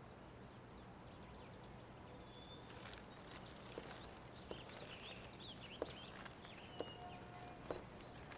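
Faint outdoor ambience: small birds chirping from about three seconds in, with slow footsteps landing about once a second over a steady low background.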